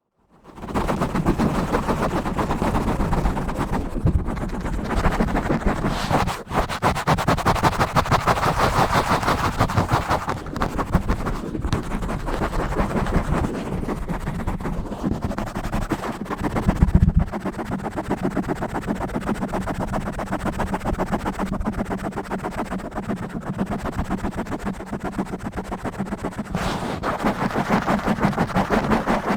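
Fast, aggressive scratching directly on a microphone: dense, rapid, rough strokes that go on with little pause, with a brief louder knock about two-thirds of the way through.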